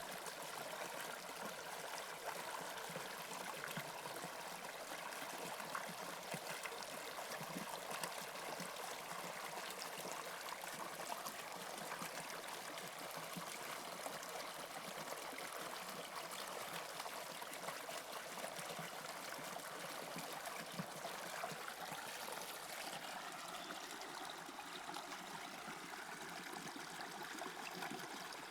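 Toronto subway Line 2 train running between stations: a steady rushing noise of wheels on rails and air.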